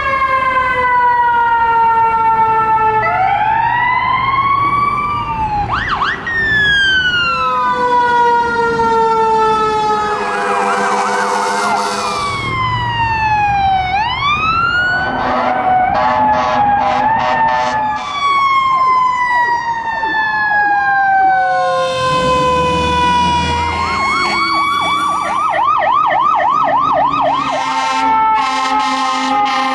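A string of emergency vehicle sirens responding. Mechanical sirens wind up and coast down in long falling wails, and electronic sirens yelp in fast up-and-down sweeps, twice.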